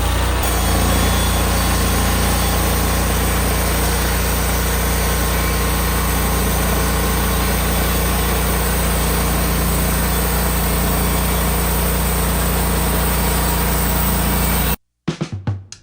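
An engine running steadily at a constant speed. It cuts off abruptly near the end, and music with plucked guitar starts.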